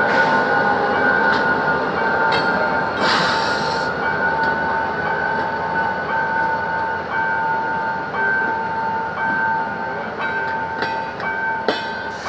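GM GT22CW-2 diesel locomotive hauling a passenger train away from the station, with the coaches rolling past and wheels clattering over the rail joints and crossing in short bursts. A steady high two-pitched ringing tone runs underneath throughout.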